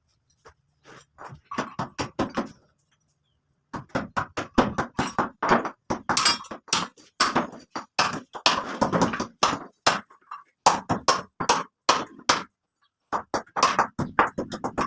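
Rapid hammer blows, about four a second, in three runs broken by two short pauses.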